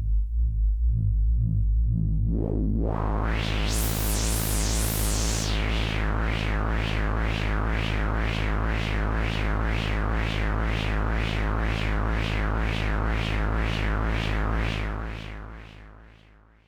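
Homemade DIY modular synthesizer playing raw techno with no effects: a steady deep bass under a pulsing sequence. About two and a half seconds in, a filter sweeps open into bright highs, then the notes pulse about twice a second. It fades out near the end.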